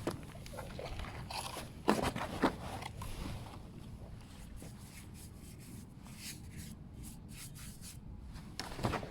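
Intermittent rubbing and scraping on a stainless motorcycle exhaust pipe during hand cleaning, with two sharp knocks about two seconds in and another near the end.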